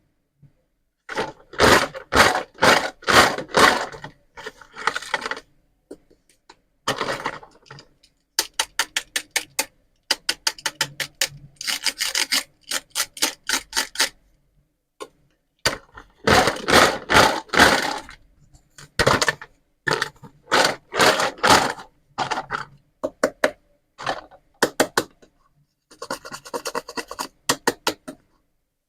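Pieces of a toy pizza and vegetable playset being scraped and rubbed: bursts of quick rasping strokes with short pauses between them.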